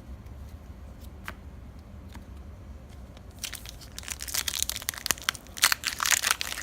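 Foil Pokémon booster pack wrapper crinkling and being torn open, starting about halfway through after a few faint clicks, as dense irregular crackling.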